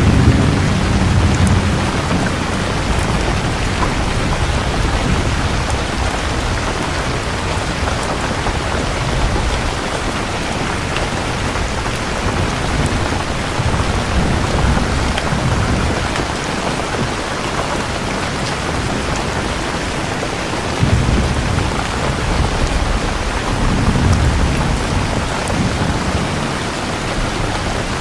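Steady heavy rain with low thunder rolling several times: a rumble near the start, another midway, then a sudden rumble and a further one in the last third.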